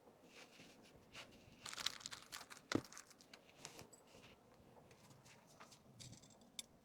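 Faint crinkling and rustling of packaged items being handled, with scattered clicks and one sharper tap about three seconds in.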